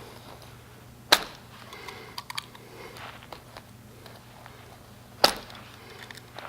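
Two loud, sharp snaps about four seconds apart, with a few lighter clicks between them, as rubber is being cut.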